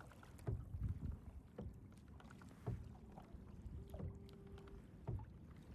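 Quiet kayak paddling on the sea: soft knocks and water sloshing from the paddle and hull every second or so, with a faint steady tone for about a second near the middle.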